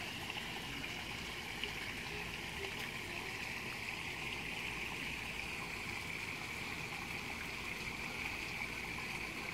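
Steady rushing of river water, an even unbroken hiss.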